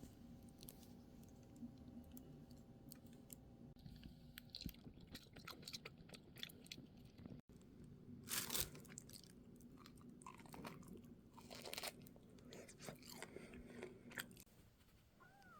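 Faint chewing and crunching of food, with scattered small clicks and a few louder crunches partway through.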